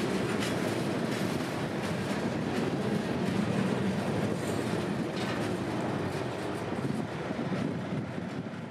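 Freight train's steel-wheeled tank cars and a covered hopper rolling slowly past, a steady rumble with a few paired clicks as wheels cross rail joints. The noise fades near the end as the last car, the hopper, moves away.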